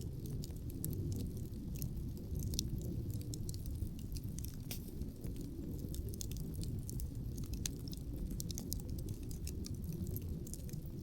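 Wood fire crackling outdoors, with many small, irregular sharp pops and snaps from the burning logs, over a continuous low rumble of wind.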